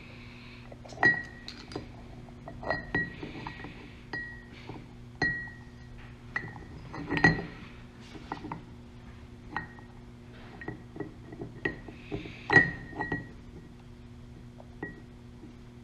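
Irregular metal clinks and taps, many of them ringing briefly, as the brake caliper body, piston and tools are handled while working the new seal and piston in, with three louder knocks about a second in, halfway through and near the end. A steady low hum runs underneath.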